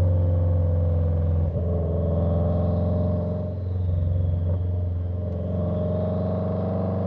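Subaru WRX FA20 turbocharged flat-four engine idling steadily through Tomei unequal-length headers, a downpipe and a resonator-deleted catback, giving the uneven boxer rumble.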